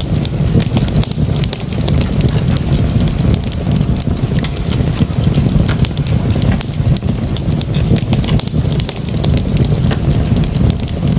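Fireplace fire crackling, with many small irregular crackles over a steady low rumble.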